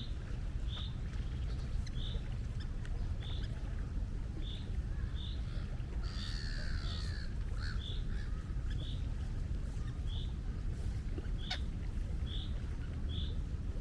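Steady low rush of sea wind and waves, with a bird repeating a short high chirp at a steady pace. About six seconds in, a gull gives a brief wavering call.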